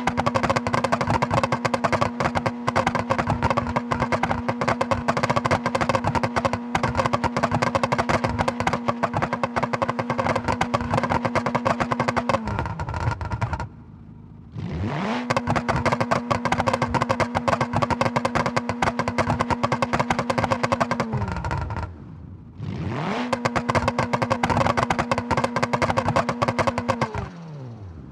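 Rally car engine and exhaust held at a steady high rev with a dense, rapid crackle, for about twelve seconds. The revs then fall away, go briefly quiet and climb back up to hold steady again for about six seconds. The revs drop and recover once more, and fall again near the end.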